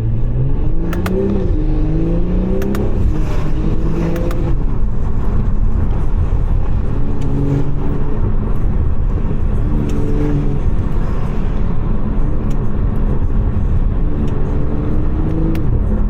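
BMW 540i's Stage 2 tuned B58 turbocharged inline-six accelerating through the gears. Its pitch climbs and drops back in steps at each upshift over the first few seconds, then it runs at a steadier pitch with a few short rises.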